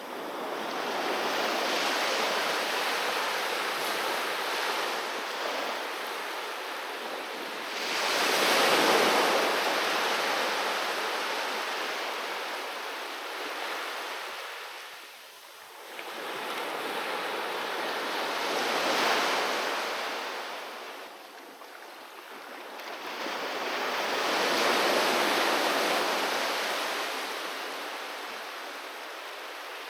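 Sea waves breaking and washing up a beach, the surf swelling and fading in long surges roughly every eight to ten seconds, the loudest one about nine seconds in.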